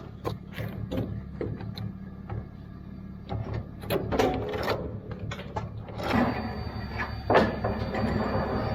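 Metal clanking, clicking and rattling of recovery gear being handled, over a steady low engine hum; the handling gets busier about six seconds in.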